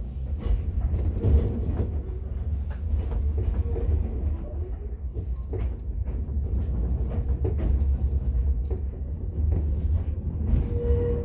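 Enoden electric train running, heard from inside the carriage: a steady low rumble with scattered clicks and knocks from the wheels and car body, and a brief whine near the end.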